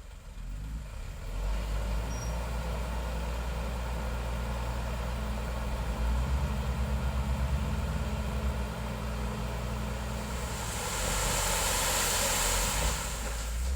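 Heavy diesel engine running steadily, growing louder about a second in, with a loud hiss lasting a couple of seconds near the end.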